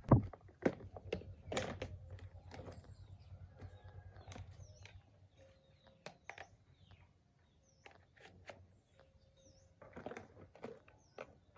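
Light clinks and taps of small metal engine parts and hand tools being handled, in irregular bursts that thin out midway and pick up again near the end. A small bird chirps briefly a few times.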